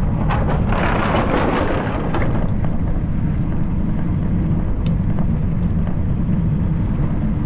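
Wind buffeting the microphone of a camera riding along on a bicycle, a steady loud low rumble. A brief rougher hiss with a few clicks comes in the first two seconds.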